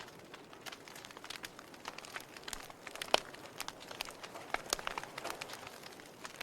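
Wood fire crackling: irregular sharp pops and snaps over a soft hiss, with one louder pop about three seconds in.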